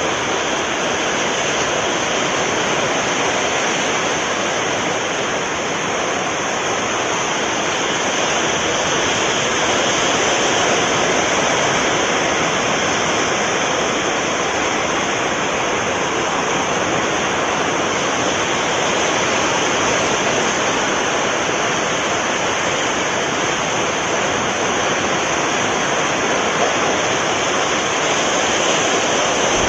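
Steady rushing of sea surf, an even wash of water noise with no breaks.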